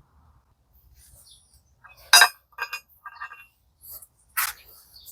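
Small metal gearbox parts clinking and knocking together: several sharp clinks with a brief metallic ring, the loudest about two seconds in.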